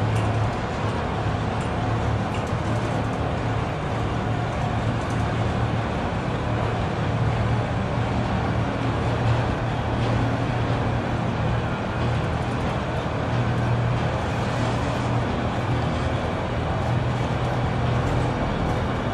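Freight train of enclosed autorack cars rolling past: a steady low rumble of steel wheels on rail, its level even throughout.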